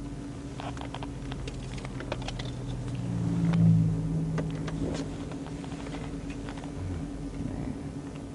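Irregular light clicks, like typing on a keyboard, over a steady low vehicle hum. A brief low rumble swells and fades about three and a half seconds in.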